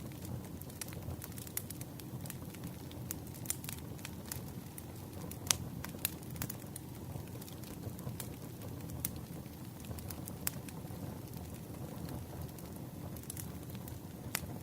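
Campfire of burning wood, crackling with irregular sharp pops over a steady low rush of flame; one pop about five and a half seconds in is the loudest.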